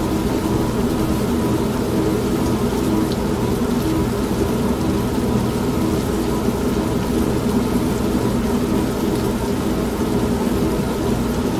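Old washing machine running steadily, its motor hum under a constant wash of rain, with a low thunder rumble.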